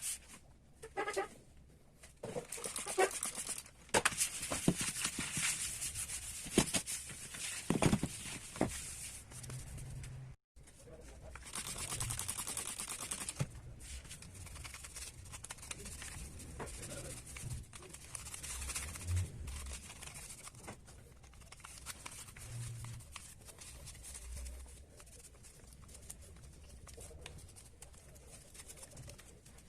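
Irregular handling noises of workshop work: rubbing and scraping with scattered clicks and taps as small tool parts are handled, with a brief drop to dead silence about ten seconds in.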